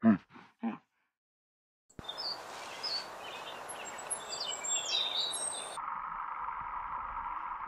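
A Bactrian camel gives three short calls, the first falling in pitch, the loudest sounds here. About two seconds in, birds chirp over an outdoor background hiss, which near six seconds gives way to a steady, even hum.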